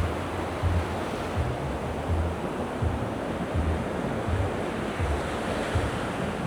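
Mediterranean surf washing on the shore, a steady rushing hiss, with wind on the microphone. Under it, dull low thumps in an even walking rhythm, about one every three quarters of a second, from the walker's footsteps jolting the camera.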